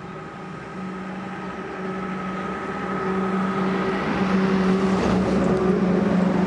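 Motor vehicle running: a steady engine hum with road noise that grows steadily louder.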